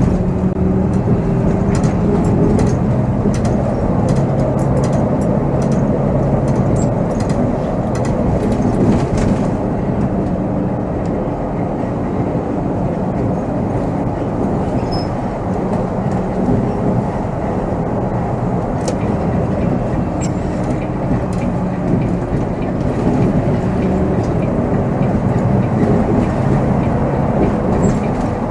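Volvo B7R coach on the move, heard from the driver's seat: steady engine drone and road noise, the engine note rising and falling as speed changes. Light clicks and rattles sound through the first nine seconds or so.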